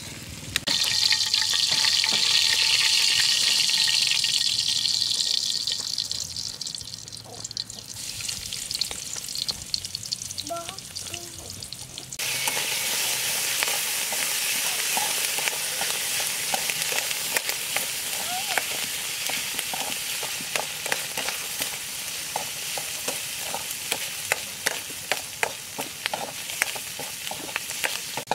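Eel and ginger stir-frying in a wok, sizzling, with a metal spatula scraping and tapping the pan. The sizzle flares loud about a second in and dies away over several seconds; from about twelve seconds in it runs steadily, with frequent sharp clicks of the spatula against the wok.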